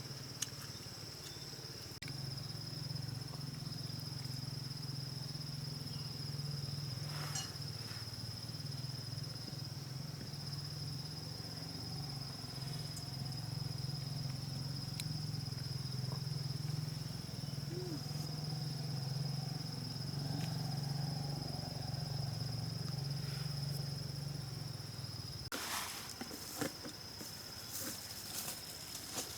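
Rainforest insects keep up a steady, high-pitched drone over a louder low, steady hum. The hum stops near the end, and a run of sharp clicks and knocks follows.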